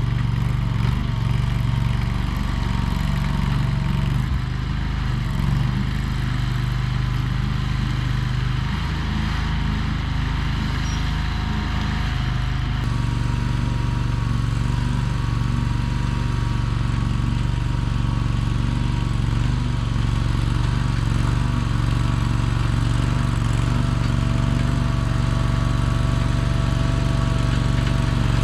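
Small gasoline engine of a mini skid steer running steadily, its note shifting slightly about 13 seconds in.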